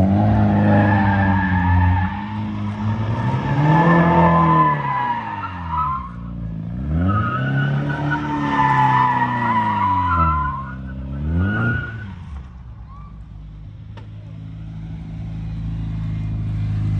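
A car engine revving up and down in repeated swells while its tyres squeal, as in drifting. About twelve seconds in it falls away, and a steady low engine note builds near the end.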